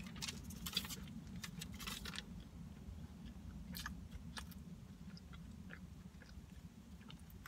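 A person chewing a mouthful of fast food close to the microphone, with wet crackly mouth clicks that are densest in the first two seconds and then thin out to occasional clicks. A steady low hum runs underneath.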